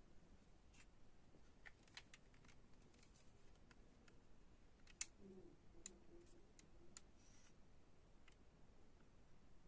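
Near silence with faint, scattered small clicks and taps, and one sharper click about five seconds in.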